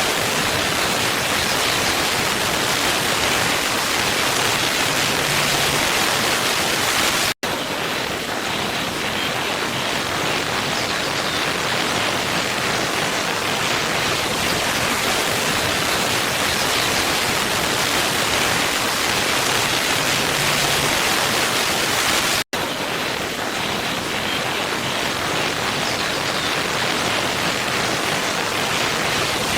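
Waterfall rushing steadily, a dense even hiss of falling water. The sound cuts out for an instant twice, about seven and twenty-two seconds in.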